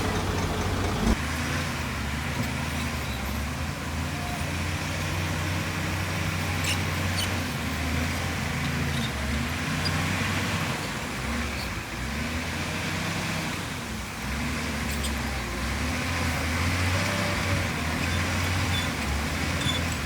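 Diesel engine of heavy earthmoving machinery running, its pitch rising and falling as it works.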